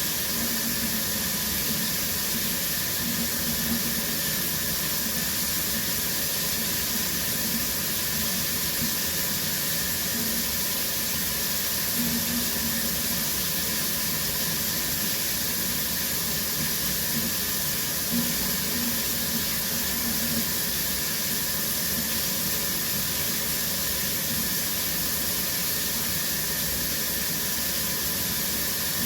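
Shower running steadily, with an even, unbroken spray of water.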